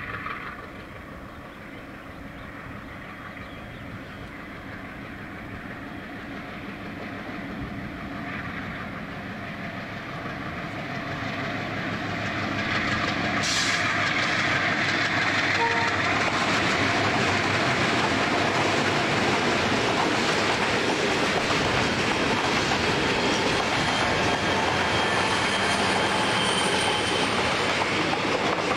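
Diesel freight train approaching and passing close by: the locomotive's sound grows steadily louder for about twelve seconds as it nears, then the train's boxcars roll past with a steady, loud rolling noise.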